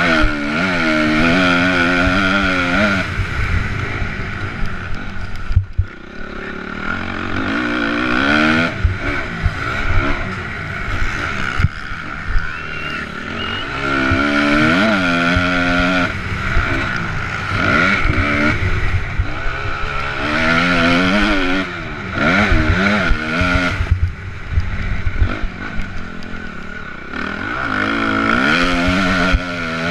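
Honda MX2-class motocross bike's engine revving up and dropping back again and again as the rider works the throttle and gears around the track, with wind noise and knocks from the bumps.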